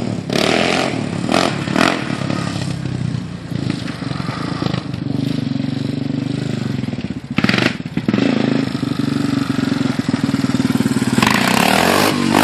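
Yamaha Raptor 350 ATV's single-cylinder four-stroke engine revving up and down as it is ridden hard, getting louder near the end.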